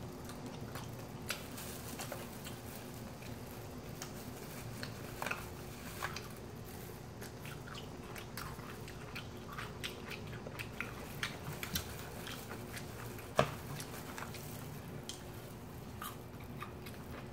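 Close-up chewing and biting of crispy fried chicken, with scattered small crunches and clicks and one sharper click about 13 seconds in, over a faint steady hum.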